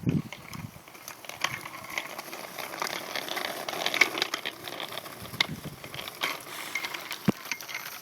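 Bicycle being ridden: a steady rattling, ticking noise from the moving bike, with scattered sharp clicks and one louder click about seven seconds in.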